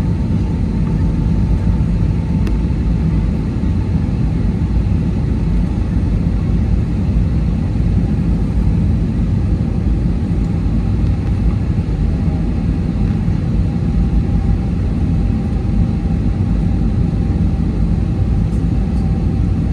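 Steady airliner cabin noise heard from a passenger seat: a low drone of engines and rushing air, with a faint thin whine that sinks slightly in pitch.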